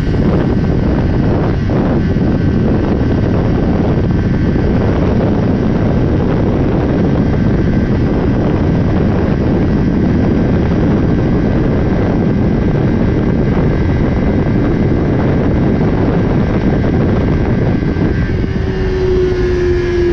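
Small-displacement sport motorcycle being ridden at speed: steady engine noise mixed with wind rush. A clear engine note comes through near the end.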